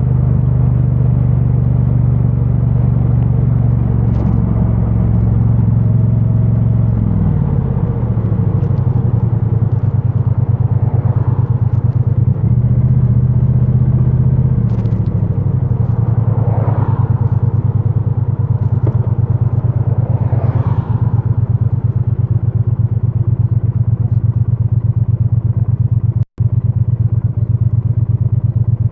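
2022 Triumph Bonneville T100's 900cc parallel-twin engine running through its stock exhaust while riding, heard dull from a microphone inside a backpack. The engine pitch falls twice as the rider eases off, and the sound drops out for an instant near the end.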